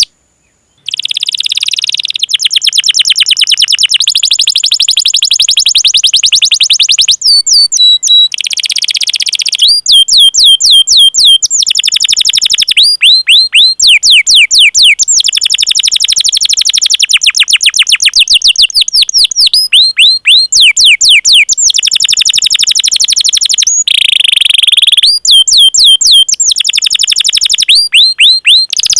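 Domestic canary singing long rolling trills of very rapid repeated notes, alternating with runs of quick falling 'cuit cuit' chirps, in phrases broken by short pauses.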